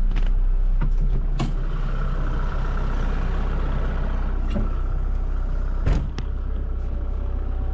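Kubota MX6000 tractor's diesel engine running steadily, with a few sharp clunks, the loudest about six seconds in.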